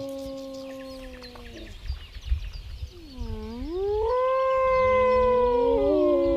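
Long, drawn-out animal howls, each held on a steady pitch. About halfway through, one call swoops down and back up, and near the end two voices overlap.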